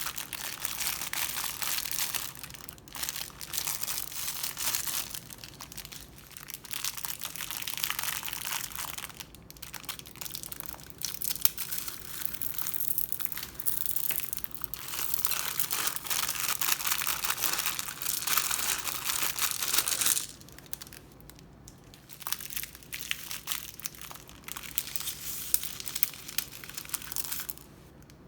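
Crunchy slime full of beads being squeezed and worked by hand, a dense run of crackles and pops. About twenty seconds in, it drops to fainter, scattered crackles.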